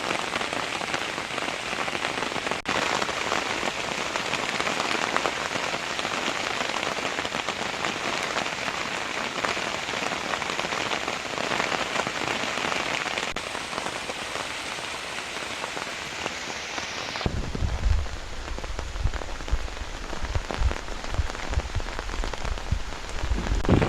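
Heavy rain falling steadily in a dense hiss. About 17 seconds in the sound changes abruptly: the hiss gets duller and an uneven low rumble joins it.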